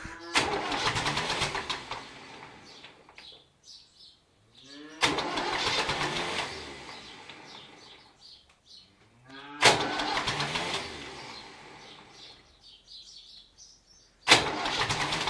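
David Brown 1490 tractor's four-cylinder diesel being cranked on its starter in four attempts about every four and a half seconds. Each attempt starts with the starter whining up in pitch and a sharp clack as it engages, then about three seconds of cranking. The engine nearly fires but does not catch, while the starter is kicking out of mesh.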